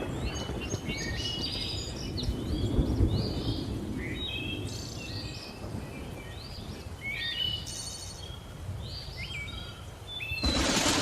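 Many birds chirping and whistling in short calls over a low rumble of thunder, with a loud thunderclap breaking in near the end.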